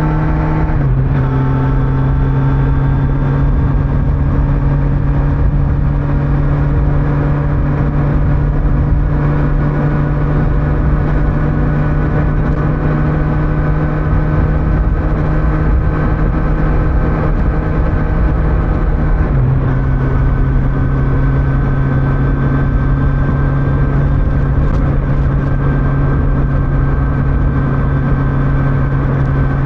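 Kawasaki Z900 inline-four engine running at steady cruising revs, with wind and road noise underneath. The engine note drops abruptly about a second in and again about two-thirds of the way through.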